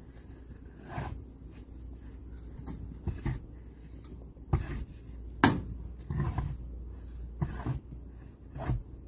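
Irregular crunching and scraping strokes in snow, roughly one a second, with one sharper, louder knock about halfway through.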